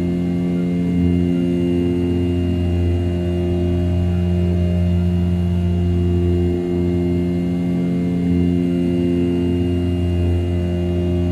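An RZ420 desktop CNC mill with a 500 W brushless spindle at 6000 rpm, roughing A7075 aluminium with an end mill. It makes a steady, loud tonal hum with a brief dip about two-thirds of the way through.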